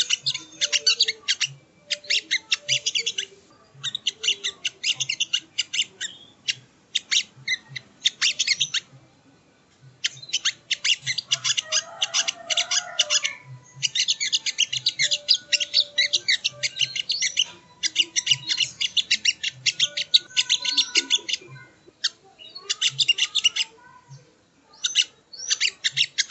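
Sogon (sogo ontong) bird chattering: rapid trains of sharp, high notes in bursts of one to two seconds, broken by short pauses.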